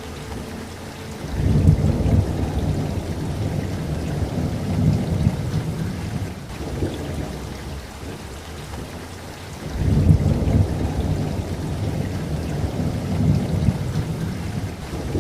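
Steady rain with two long rolls of thunder, the first starting about a second and a half in and the second about ten seconds in, each rumbling for several seconds.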